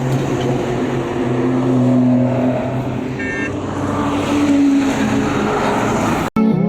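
Superbike engines running with loud exhausts, the pitch shifting as they rev, with a brief high tone about three seconds in. The sound cuts off sharply about six seconds in.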